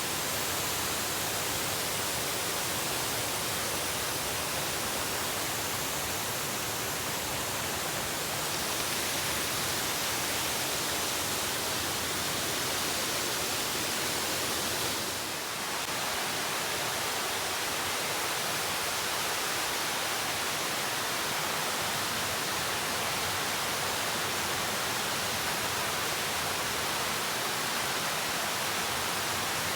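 Rushing water of a mountain stream and waterfall, a steady, even rush with a brief slight dip about halfway through.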